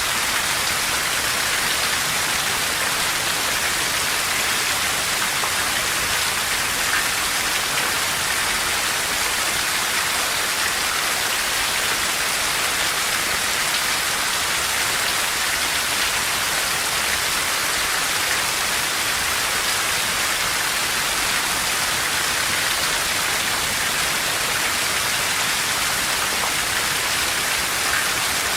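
Steady rain falling, an even hiss that neither builds nor breaks.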